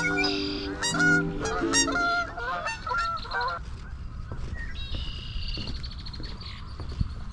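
Several geese honking, a string of overlapping calls in the first three and a half seconds that then stops, leaving faint background hiss.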